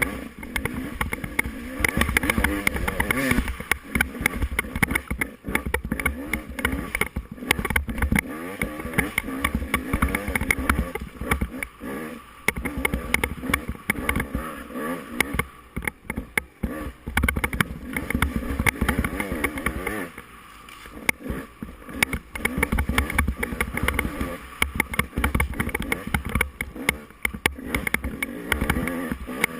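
Off-road dirt bike engine revving up and down under constant throttle changes while racing on a rough trail. Frequent knocks and thumps, plus a heavy low rumble, run under the engine, and the revs drop briefly about two-thirds of the way through.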